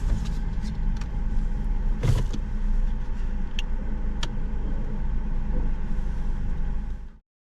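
Steady low vehicle rumble heard from inside a car, with scattered light clicks and a single thump about two seconds in; the sound cuts off abruptly near the end.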